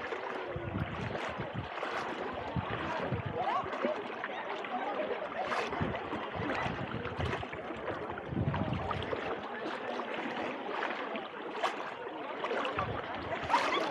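Small Mediterranean waves lapping and splashing at the shoreline in an irregular wash, with faint, indistinct chatter of beachgoers underneath.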